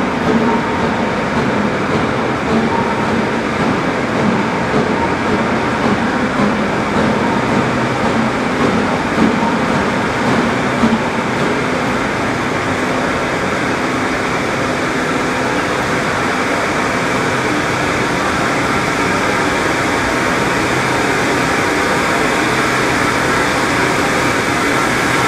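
A steam-hauled excursion train running past on the mainline: a loud, steady rumble of wheels on rail, a little uneven in the first half and smoother after that.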